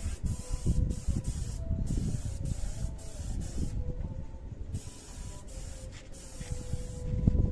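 Clear coat being sprayed in repeated hissing bursts, each about one to two seconds long, with short pauses between them, over a low rumble.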